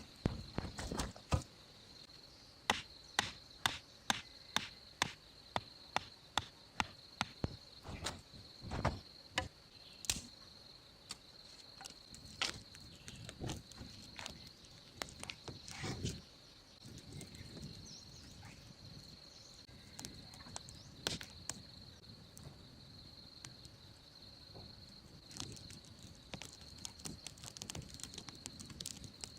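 Insects trilling steadily on one high note, with a run of sharp knocks at about two a second for several seconds, then scattered single knocks.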